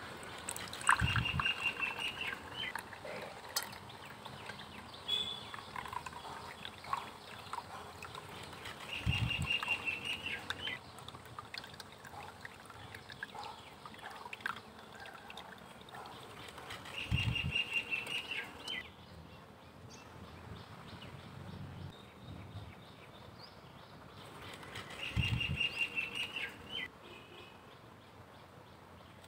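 Birds calling outdoors: a short, rapid series of high notes, each with a low thump, comes four times at about eight-second intervals, with scattered faint chirps in between.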